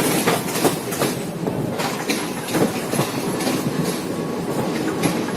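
A train running on the track, its wheels clicking over the rail joints in an irregular clatter over a steady rolling noise.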